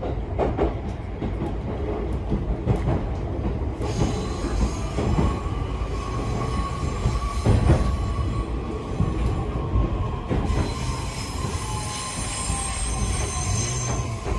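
Interior running sound of a JR East E131-1000 series electric train: wheel and rail rumble with rail-joint clicks, then a high wheel squeal setting in about four seconds in and growing stronger near the end. A steady tone that slowly falls in pitch over the last few seconds, as from the drive slowing.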